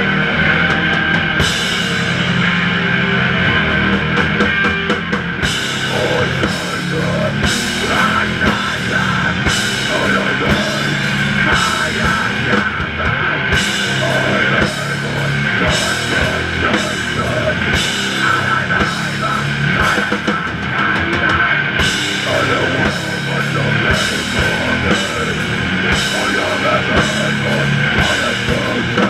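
Live hardcore punk band playing loud, with distorted electric guitar, bass and a drum kit with crashing cymbals.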